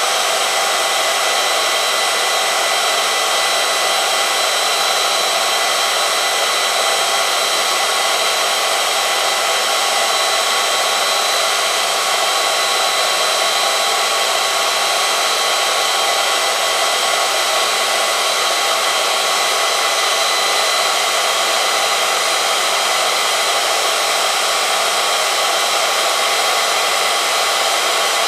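Oil-film test machine running steadily: an electric motor drives a rotating part against a metal test sample lubricated with hot 10W-50 four-stroke oil, giving an even whine over a rushing hiss.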